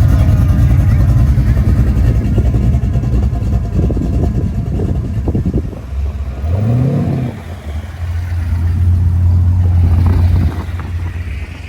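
Car engine running loud with a low rumble, revving up briefly about six and a half seconds in, then settling into a steady idle that drops away near the end.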